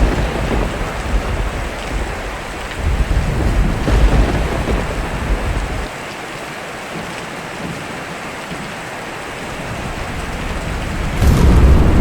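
Steady rain with thunder: low rolling rumbles in the first half that die away about six seconds in, then a sharp thunderclap near the end followed by loud rumbling.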